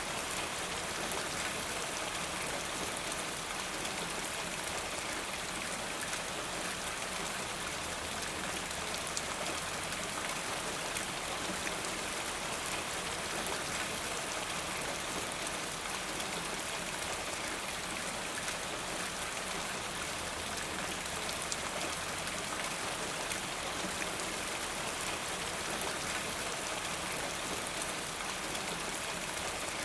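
Steady rain falling, an even hiss of drops with faint patter, without letup.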